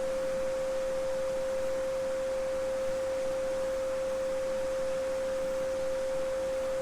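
A steady pure 528 Hz sine tone (the Solfeggio frequency) held without change, over the faint, even rush of a small babbling brook.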